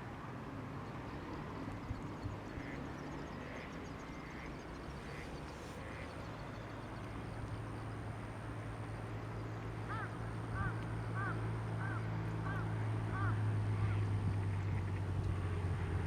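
A low steady drone that slowly builds and becomes the loudest sound, with a faint high thin whine above it. About two-thirds of the way in, a bird gives a quick run of about seven short calls, roughly two a second.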